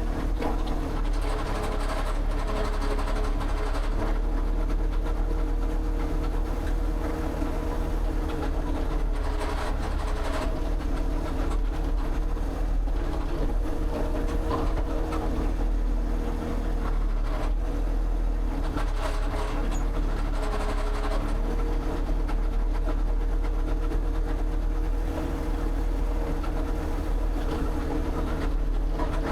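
An engine running steadily at a constant pitch and speed.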